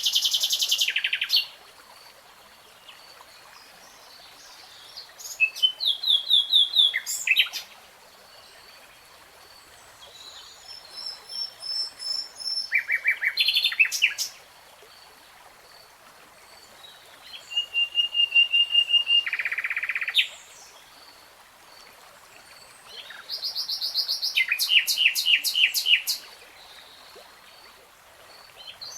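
A songbird singing in separate phrases of rapid repeated notes and trills, about one phrase every five to six seconds. A faint steady high-pitched tone carries on between phrases.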